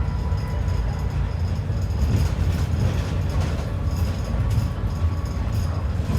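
Interior of an ADL Enviro 400 double-decker bus under way: a steady low engine and road rumble, with frequent small rattles and clicks from the cabin fittings.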